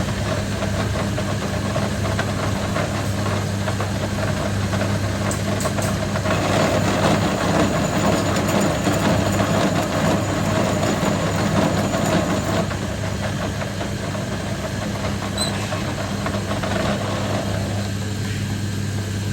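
A machine running steadily with a constant hum, growing louder and noisier for several seconds in the middle before settling back.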